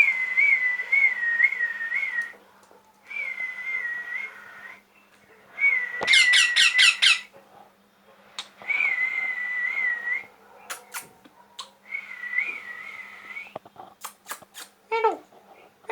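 A pet parrot whistling a wavering phrase over and over, five times with short gaps between. About six seconds in, one phrase turns into a harsher, squawk-like call. A few short clicks and a brief falling call come near the end.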